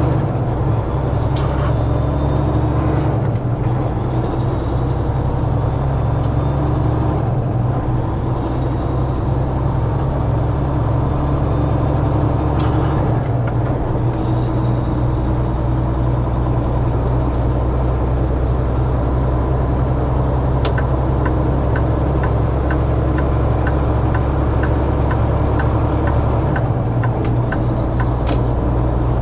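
Semi truck's diesel engine running under way, its low note stepping down and back up several times as it works through the gears. For the last third a turn signal ticks about twice a second.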